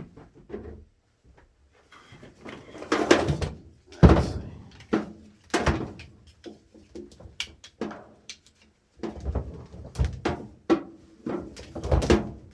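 Irregular knocks, clunks and rattles of hands and tools working around a car's weak battery, the loudest knock about four seconds in; no engine running or cranking.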